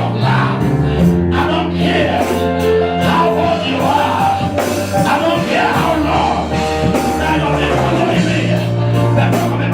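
Church praise music: a live band with sustained bass notes, a steady beat and singing voices.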